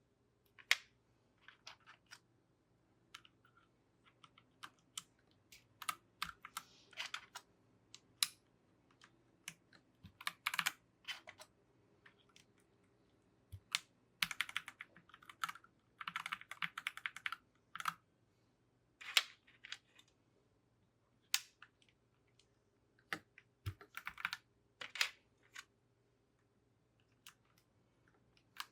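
Keyboard keycaps clicking and clacking irregularly as they are pressed onto the switches of a mechanical keyboard, with a few short runs of rapid clicks as keys are pressed.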